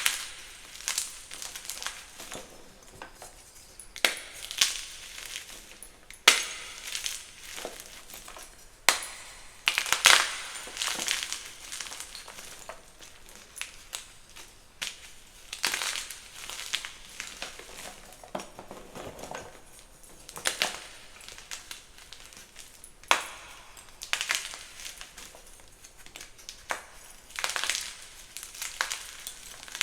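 Blocks of gym chalk being crushed, a run of dry, crumbly crunches coming irregularly every second or so, some sharper and louder than others.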